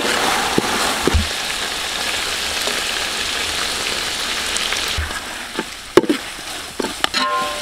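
Mutton frying in separated oil in a metal pot, sizzling steadily as it is stirred with a metal spatula. The spatula scrapes and knocks against the pot, with a sharp knock about six seconds in, after the sizzling has died down.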